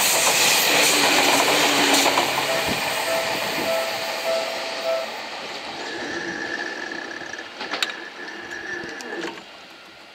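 Seibu 2000 series electric train pulling away: the rumble and rattle of its cars passing close, fading steadily as the train draws off down the line, with a steady whine that steps up in pitch partway through and a few sharp clicks near the end.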